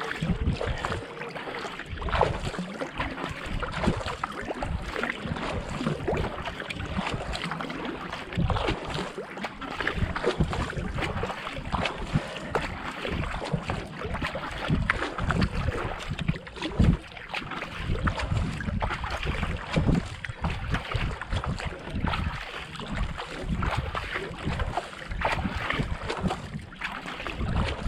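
Kayak paddle strokes and water splashing and rushing along a racing kayak, with wind gusting on the microphone in irregular low thumps.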